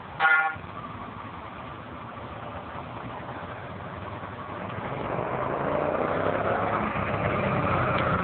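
Yamaha V-Star 950's air-cooled V-twin engine running, growing steadily louder over the second half as it picks up revs. A short, loud, high-pitched cry cuts in about a quarter of a second in.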